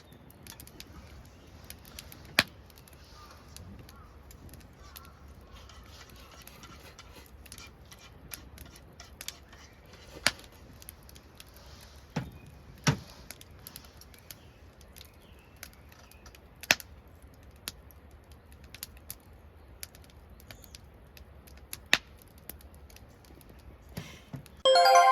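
Wood campfire crackling: irregular sharp pops and snaps over a low hiss, a handful of them much louder than the rest.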